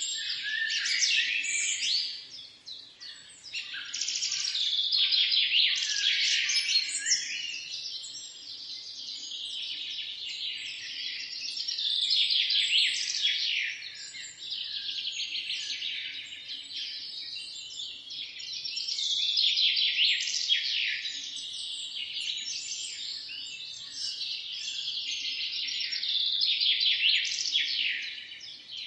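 Many small birds chirping and twittering at once in a dense chorus, swelling louder and easing back every several seconds, with a short lull about two seconds in.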